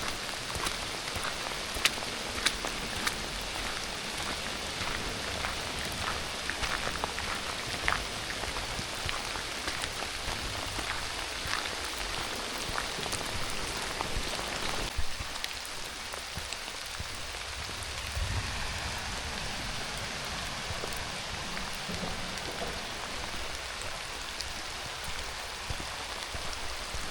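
Steady rain falling, an even hiss with sharp close drop ticks that thin out about halfway through.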